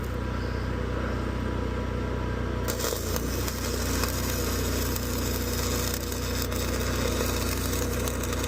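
Stick welding arc struck about three seconds in, then crackling and sizzling steadily as the rod burns, over the steady hum of an engine running.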